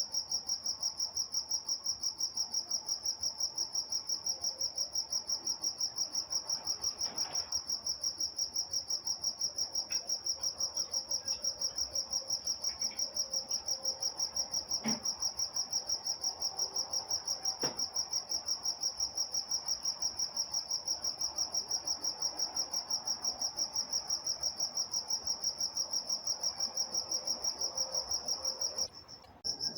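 Crickets chirping in a steady, high-pitched chorus of rapid, evenly spaced pulses. Near the end the chirping stops for about half a second, then resumes. A faint low hum runs underneath, with a couple of faint clicks about halfway through.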